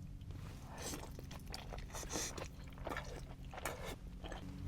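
Close-up chewing and biting: soft clicks and crunches of a person eating crispy cheese-crusted birria tacos, over a faint steady hum.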